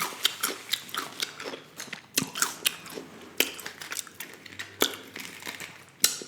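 A person chewing food close to the microphone: a steady run of short, sharp mouth clicks and smacks.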